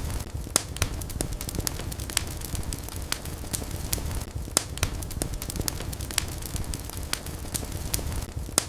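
Wood fire burning in a fireplace: irregular sharp crackles and pops over a steady low rumble and hiss of the flames.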